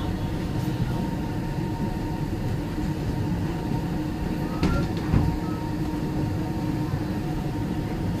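Sleeper express train running, heard from inside a carriage: a steady low rumble under a constant hum. Two short knocks come a little past halfway.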